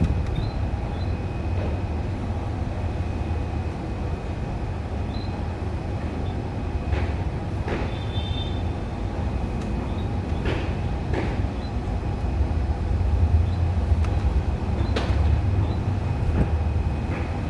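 Steady low rumble, with a few faint, short high chirps from a canary and occasional light clicks.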